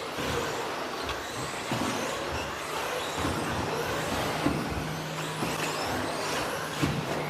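Several radio-controlled off-road stadium trucks with 13.5-turn brushless electric motors racing on a dirt track: a steady mix of motor whine and tyre noise, broken by scattered sharp knocks. A steady low hum joins about three seconds in.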